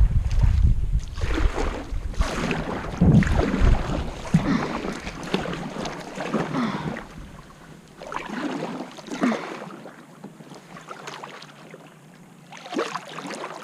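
Kayak paddle strokes, the blades swishing through the water every second or two, with wind rumbling on the microphone over the first few seconds.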